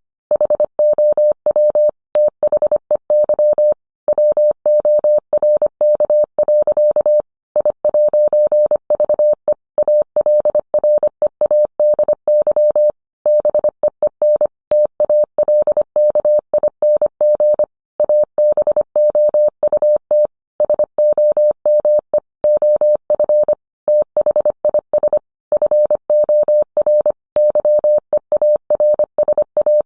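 Morse code: a single steady tone of about 600 Hz keyed rapidly on and off in dots and dashes, with slightly longer pauses between words.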